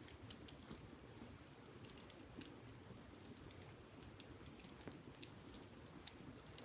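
Wood campfire crackling faintly, with small irregular pops and one sharper pop near the end, over a low steady rush.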